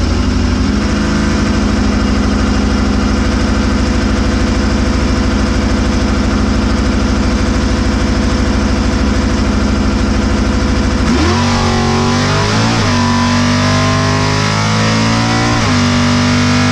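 Drag car's engine heard from inside the cabin, holding a steady loud rumble, then launching about eleven seconds in: the revs climb fast, drop at a gear shift, climb again and shift once more near the end.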